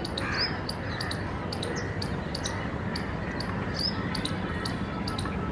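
Birds calling with sharp, rapidly repeated chirps, a few a second, and a short whistled note every couple of seconds, over a steady low hum of city background.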